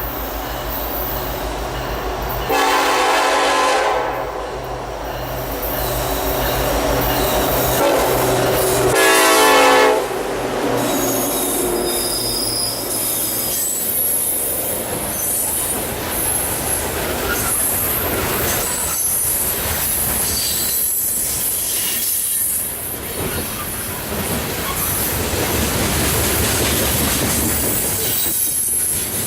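Norfolk Southern SD70ACe diesel locomotives pulling a loaded coal train past, with a low pulsing engine rumble. Two horn blasts of about a second each sound about 2.5 and 9 seconds in. After that, heavily loaded coal cars roll by, with steel wheels squealing and clicking over the rail joints.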